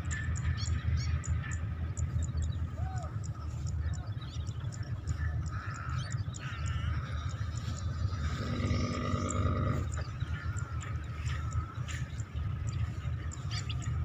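Small birds chirping and tweeting in short, repeated notes over a steady low rumble of wind on the microphone.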